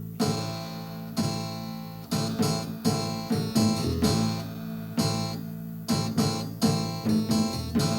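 Instrumental music led by acoustic guitar, chords strummed and plucked over steady held low notes.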